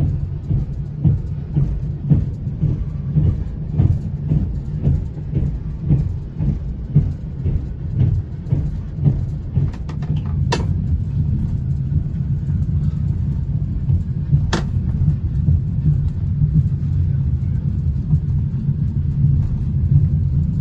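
Talgo passenger train running at speed, heard from inside the carriage: a steady low rumble with a rhythmic clack of wheels over the rails that is plainest in the first half and evens out after. Two sharp ticks come about halfway through.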